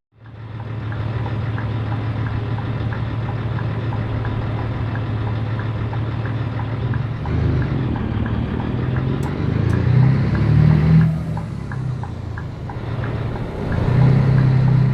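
Scania 113 truck's six-cylinder diesel engine running, heard with a faint regular ticking of about two to three a second. The engine note shifts and rises from about seven seconds in, eases back around eleven seconds, and rises again near the end.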